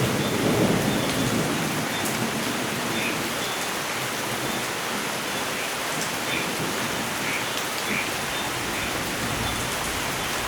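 Steady rain falling in a forest, with the tail of a thunder rumble dying away in the first second.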